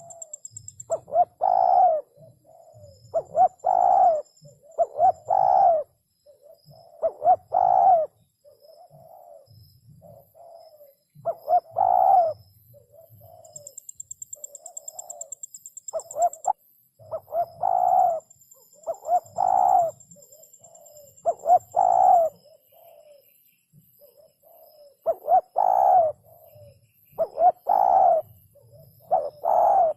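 Spotted dove cooing, repeating its phrase of a few soft coos every couple of seconds in three runs separated by short pauses. A thin high whine comes and goes faintly behind it.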